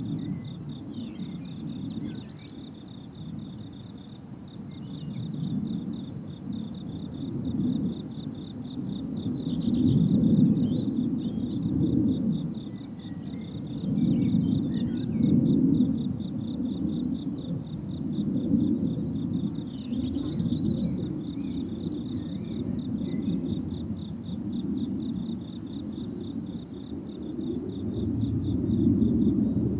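Crickets chirping in a steady run of fast, even pulses, with a short break about eleven seconds in. Under them is a low rumble that swells and fades.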